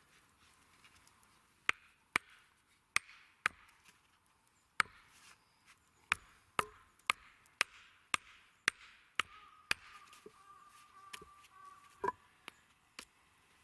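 Repeated sharp strikes of a tool on wood, about two a second with short gaps, typical of chopping or pounding wood while building a campfire table.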